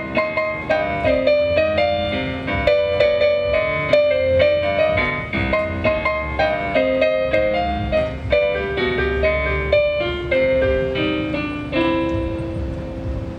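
Piano playing an instrumental passage of quickly struck notes and chords, ending on a chord that is left to ring and fade near the end.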